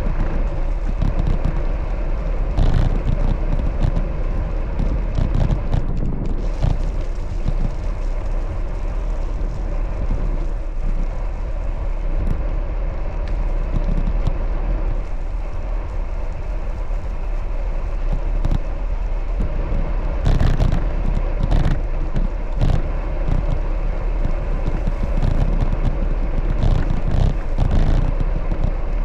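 Wind buffeting the microphone during a bicycle ride, with a steady low rumble of road and traffic noise.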